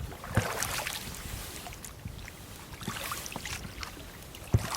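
Water and hull sounds of a small boat on the water: an even splashing noise with two sharp knocks, one shortly after the start and a louder one near the end.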